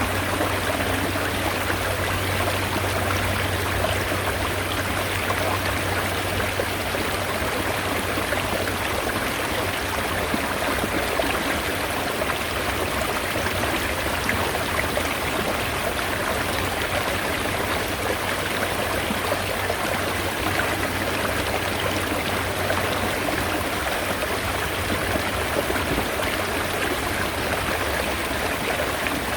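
Mountain stream water running steadily, a continuous even rush of flowing water.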